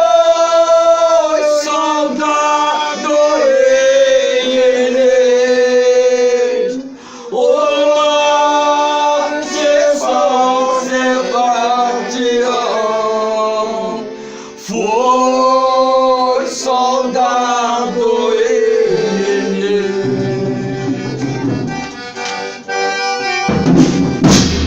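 Folia devotional folk music: an accordion playing long held chords and melody lines with voices singing along, in phrases broken by short pauses. About a second before the end, percussion such as a tambourine comes in loudly.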